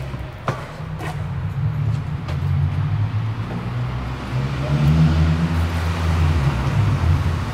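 A car engine running, its low drone shifting up and down in pitch and getting louder about four and a half seconds in. Two sharp clicks sound about half a second and a second in.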